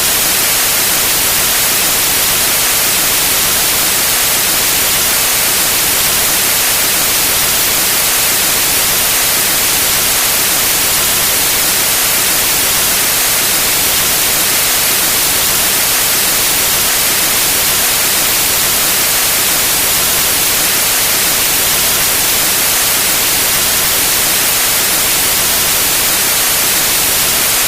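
Steady white noise: an even, hiss-like rush, brightest in the treble, that never changes.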